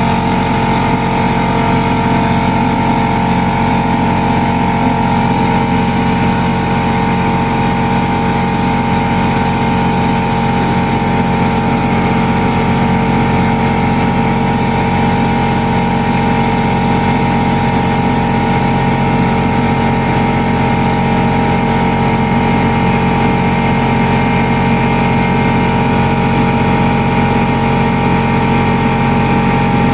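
2000 Chevrolet S-10 pickup's engine running steadily at a constant speed, with no change in pitch or level.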